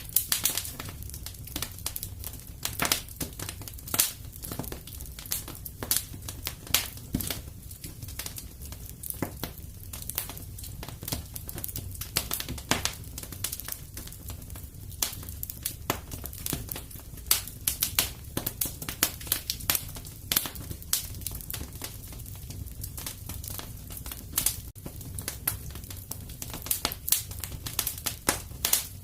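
Wood fire crackling and popping in a fireplace: many sharp, irregular snaps over a low steady rumble of the flames.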